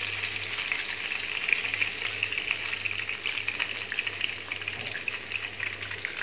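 Cornflour-coated chicken pieces frying in hot oil in a nonstick pan: a steady sizzle with small crackles and pops.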